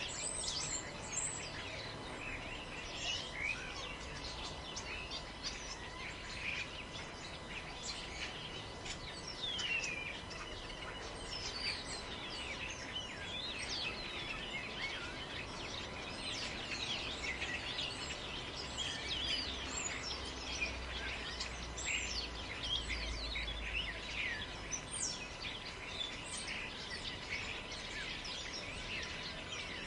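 Many small birds chirping and trilling all through, overlapping one another, over a steady hiss of forest ambience. A low wind rumble swells briefly a little past two-thirds of the way in.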